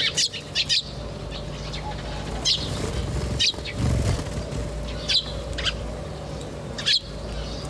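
Small birds chirping: short, high chirps every second or two, over a steady low hum.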